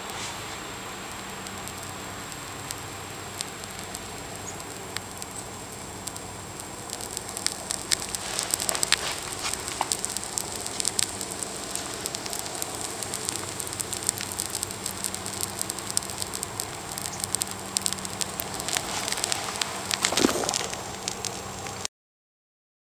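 Burning electronic speed controller of an HPI SC-15 RC truck: a steady hiss with crackling and popping that grows much denser about seven seconds in, with a louder burst of pops near the end before the sound cuts off suddenly.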